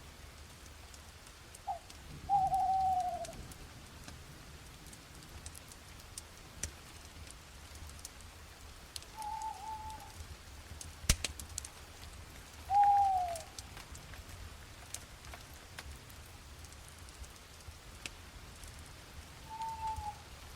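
Night forest ambience: a bird gives five short calls, the two loudest falling in pitch, a few seconds apart. Faint scattered crackles run underneath, with one sharp pop about eleven seconds in, over a low steady rumble.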